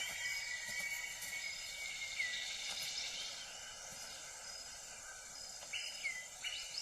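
Tropical rainforest ambience: a steady high insect drone with a few short, bending bird whistles.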